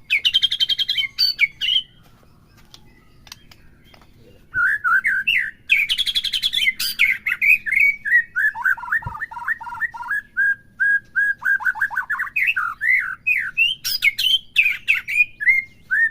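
White-rumped shama singing: harsh buzzy chattering at the start and again about six seconds in, between and after which it gives long runs of quick clear whistled notes, mostly short falling slurs repeated several times a second. After the opening chatter there is a pause of about two seconds.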